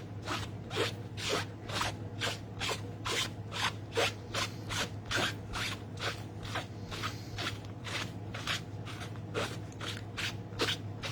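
Stamp being scrubbed clean of ink on a stamp-cleaning pad: quick, even back-and-forth rubbing strokes, about two a second, with small squeaks in some strokes.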